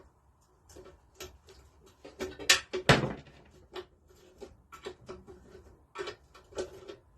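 Irregular metal clicks and knocks of a spanner and bolts being worked and handled, the loudest two about two and a half and three seconds in.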